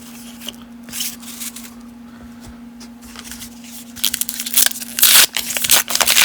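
Baseball cards being sorted by hand: cards sliding and flicking against one another, scattered at first, then louder, busier rustling for the last couple of seconds.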